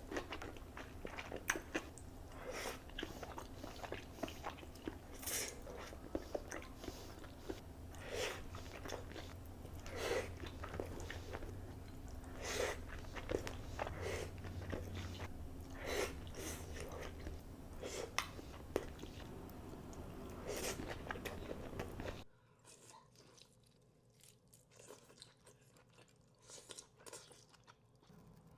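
Close-miked eating of seafood: biting and chewing with crunches and many sharp mouth clicks, over a steady low hum. About 22 seconds in the hum cuts out abruptly and the chewing goes on more quietly, as from a different recording.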